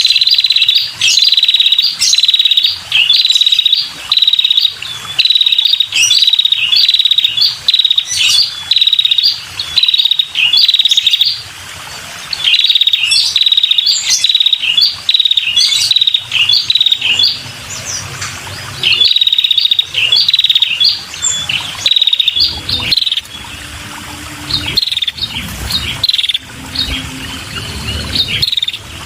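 Female red-headed prenjak calling: loud, short, high chips repeated about two a second in runs with brief pauses, the call used to lure male prenjak.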